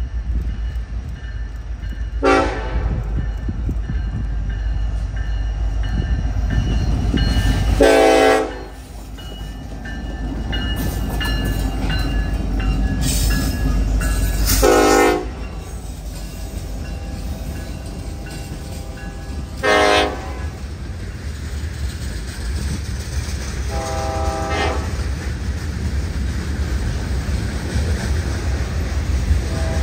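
Diesel-hauled freight train passing, led by Norfolk Southern locomotives: a steady low rumble of engines and cars rolling over the rails. It is broken by horn blasts, a short one a couple of seconds in, two longer ones near the 8- and 15-second marks, another short one about 20 seconds in and a fainter one shortly after.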